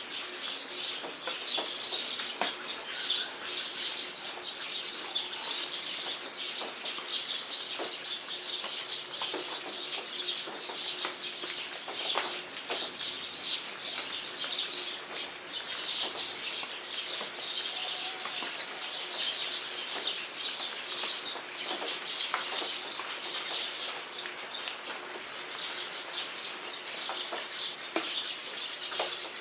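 Steady rain falling, with many sharp drip ticks, under a continuous chorus of birds chirping and singing.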